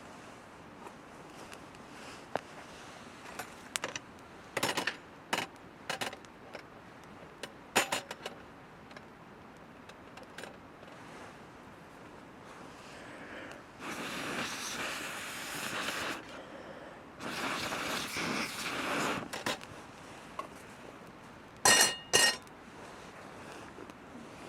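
Camp gear being handled: scattered small clicks and knocks, two stretches of rustling in the middle, and two sharp metallic clinks that ring briefly near the end.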